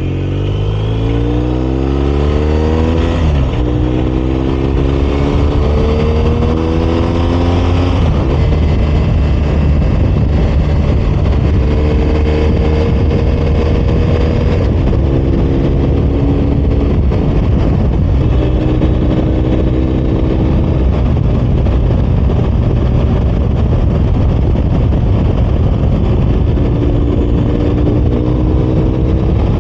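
BMW R 1250 RS's boxer-twin engine pulling away and accelerating through the gears, its pitch rising and then dropping at upshifts about three and eight seconds in. It then settles to steady cruising with wind and road rush, and briefly rises in engine speed a few more times.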